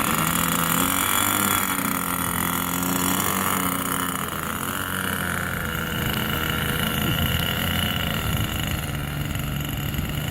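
Tower Hobbies .46 two-stroke glow engine on a radio-controlled model airplane running at high throttle, a steady whine that shifts higher about halfway through.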